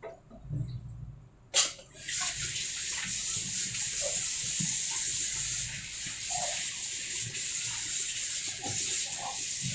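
A sharp click about one and a half seconds in, then water running steadily from a kitchen tap with a rushing hiss.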